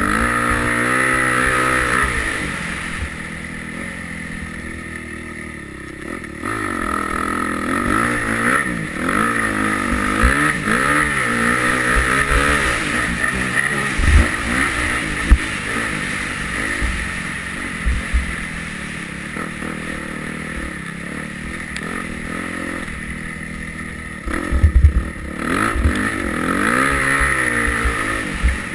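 Yamaha YZ250F single-cylinder four-stroke motocross engine being ridden hard, its pitch rising and falling over and over as the rider works the throttle and gears. A few short low thumps stand out, the loudest about a dozen seconds in and near the end.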